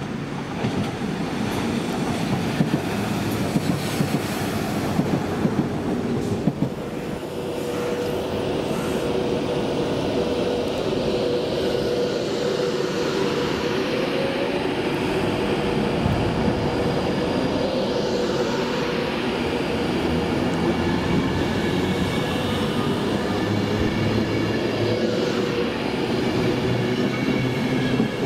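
A train running past on the rails: a run of sharp clacks over the first several seconds, then steady running noise with a held tone.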